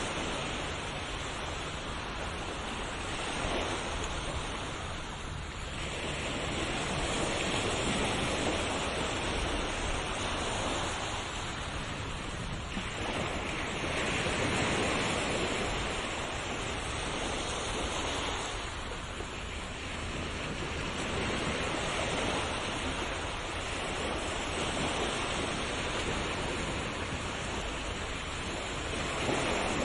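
Ocean waves: a steady rush of surf that swells and eases about every five or six seconds.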